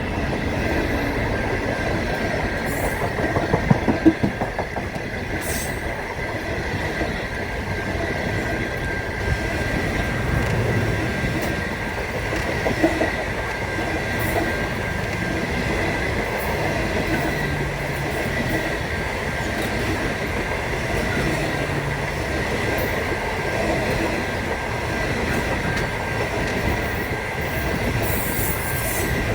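Train running along the track: a steady rumble with a steady high-pitched squeal held over it, and a few clicks about four seconds in.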